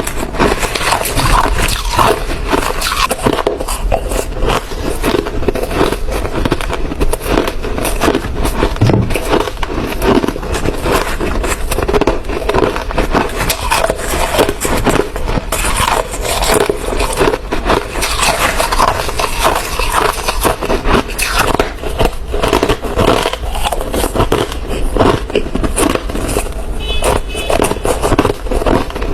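Hard ice being bitten and chewed: a continuous run of loud, irregular crunches.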